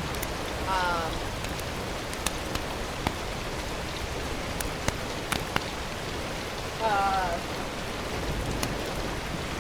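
Steady sizzling hiss of food cooking, with scattered sharp pops.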